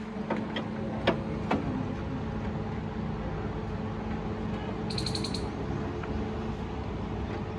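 Steady background hum with a few sharp clicks in the first two seconds, and a brief high-pitched chirping call about five seconds in.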